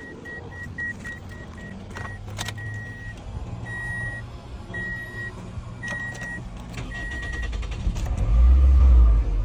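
A Toyota car's warning chime beeping repeatedly over a steady low hum, the beeps slowing to longer, evenly spaced tones. About eight seconds in, the engine is cranked with a loud low rumble.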